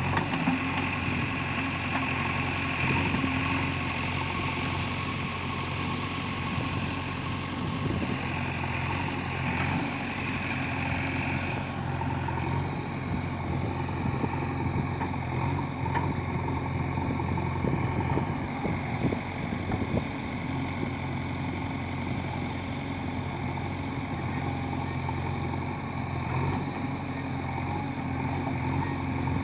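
JCB 3DX backhoe loader's diesel engine running steadily at a near-constant speed.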